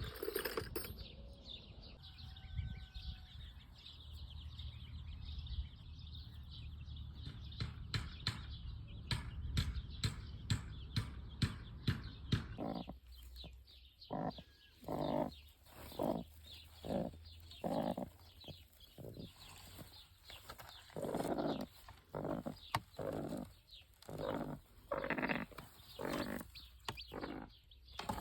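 Farm animals calling in a series of short calls, about one a second, through the second half, preceded by a run of quick clicks.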